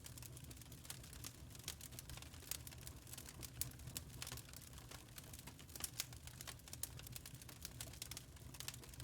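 Wood fire burning in a fireplace, crackling with irregular sharp pops and snaps over a soft low rumble of the flames.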